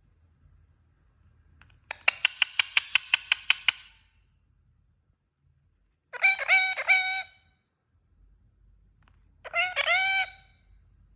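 Indian ringneck parakeet calling: a rapid string of about a dozen sharp, shrill calls, then two shorter bursts of pitched, wavering calls a few seconds apart.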